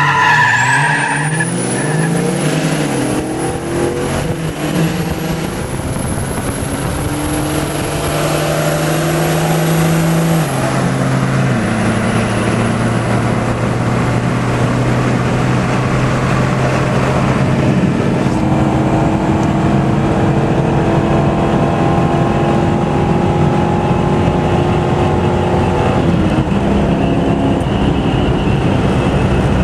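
Car engine running hard under road and wind noise. Its note holds steady, then steps down in pitch twice, about ten and twelve seconds in. A high whine rises just after the start.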